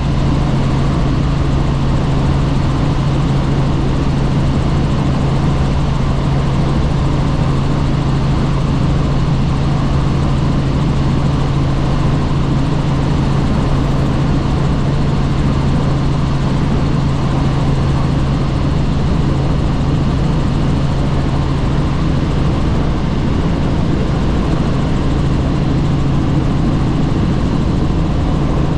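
Helicopter in flight heard from on board: a steady, loud drone of rotor and turbine with a strong low hum, unchanging throughout.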